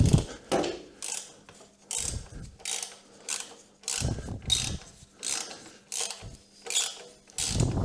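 Hand ratchet wrench clicking in repeated back-and-forth strokes as a bolt is worked, with a duller knock every couple of seconds.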